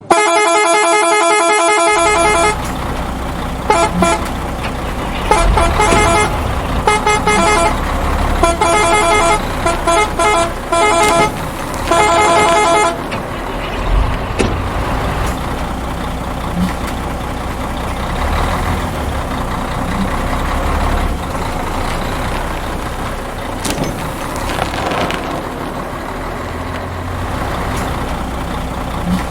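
Truck horn sounding in bursts of short blasts over a heavy truck engine idling with a low rumble. The horn stops a little before halfway and the idle runs on. A brief buzzing tone opens it.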